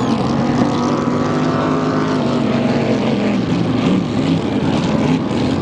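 Drag boat engine running steadily, its pitch dipping slightly about halfway through.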